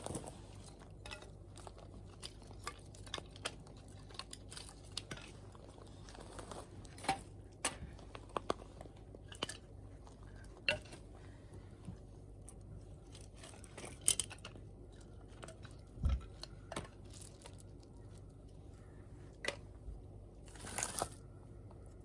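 Wood campfire crackling, with irregular sharp pops and snaps over a faint steady background; a quick cluster of pops comes near the end.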